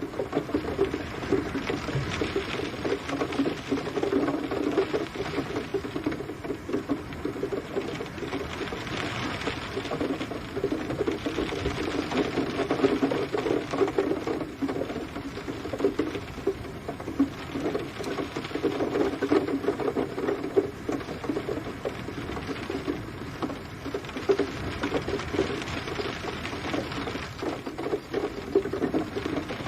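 Steady rain pattering, a dense stream of drops that swells and eases every few seconds.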